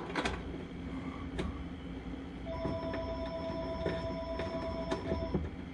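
Light clicks, knocks and rattles of hands handling parts and wiring inside a washing machine cabinet. About two and a half seconds in, a steady electronic tone of two pitches starts, lasting nearly three seconds before it cuts off.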